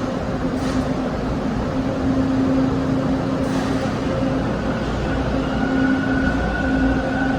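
TTC Line 2 subway train (Bombardier T1) running through the station with a steady rumble and hum. A rising electric motor whine comes in over the last couple of seconds as it picks up speed.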